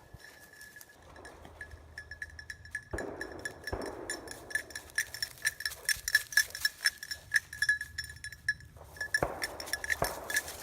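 A hunting dog's collar bell jingling rapidly and irregularly as the dog moves, with brushy rustling now and then.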